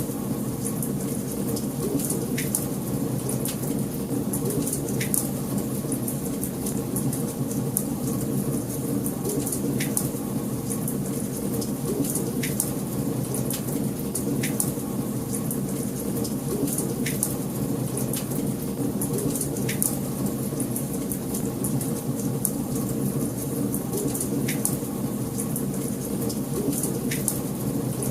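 Wood fire in a fireplace burning steadily: a dense low rush of flames with many small sharp crackles and pops scattered throughout.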